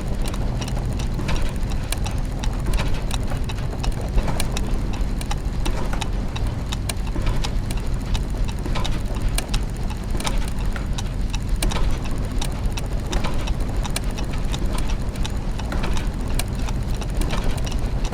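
Clockwork mechanisms and gears ticking and clicking in a dense, irregular stream over a steady low machine hum.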